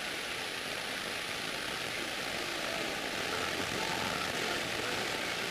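Steady, even drone of a light propeller airplane's engine and propeller in flight, heard from inside the cabin.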